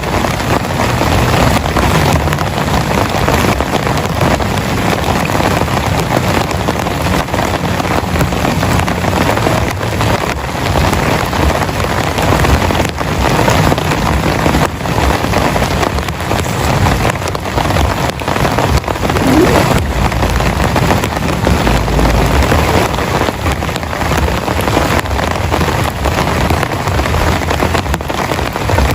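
Heavy rain falling steadily, with many individual drops striking a surface close by.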